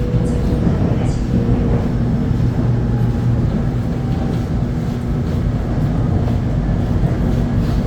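Electric commuter train running on the track: a steady low rumble with a faint hum and a few light clicks in the first second or so.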